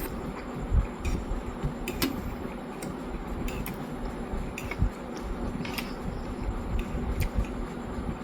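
Close-up eating sounds of noodles being eaten: chewing, with scattered light clicks and taps of a utensil on the dish.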